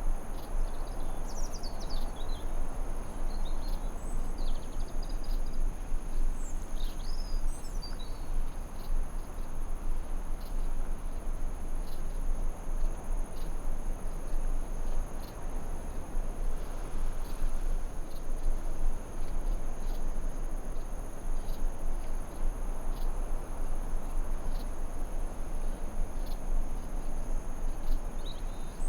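Forest ambience: insects trilling in a steady high whine, with a bird giving a series of short chirps in the first several seconds and again at the end, over a steady low rushing hiss.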